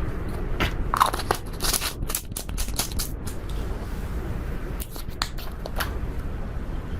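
Slime being mixed with eyeshadow by hand, giving irregular crackling clicks and pops.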